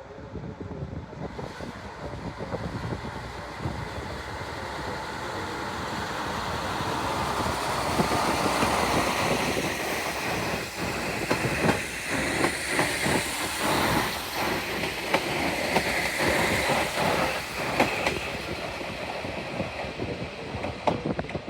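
Three-car Akita Nairiku Jukan Railway diesel railcar train pulling out and building up louder as it draws near. About halfway through its wheels clatter over rail joints in a run of sharp clicks as the cars pass, then it eases off near the end.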